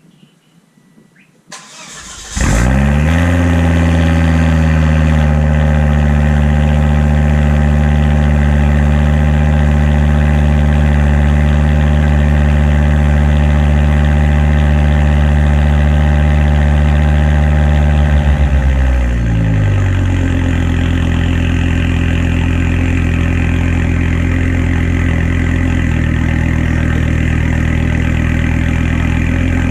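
A 2006 Volvo S60R's turbocharged inline-five cranks briefly and starts about two seconds in, running through a freshly fitted custom cat-back exhaust with a straight blast-pipe outlet and no catalytic converter. It holds a steady high idle, then drops to a lower, steady idle about two-thirds of the way in.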